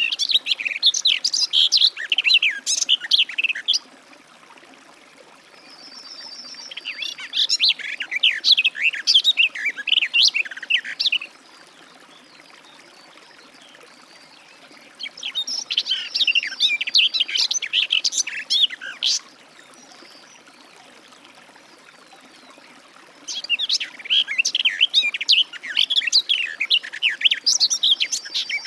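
Garden warbler singing: four long, rapid, rambling warbled phrases, each lasting about four to five seconds, with pauses of a few seconds between them.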